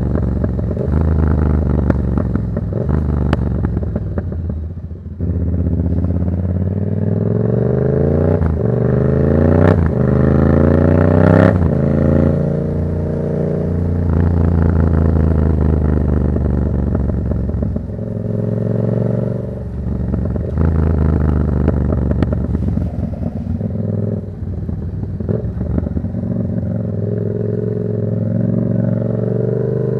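Yamaha MT-07's 689 cc parallel-twin engine running through an aftermarket Black Widow exhaust while riding. The pitch climbs through the revs in successive pulls, most steeply in the first half, with brief drops where the throttle is rolled off, then steadier running with smaller rises and falls.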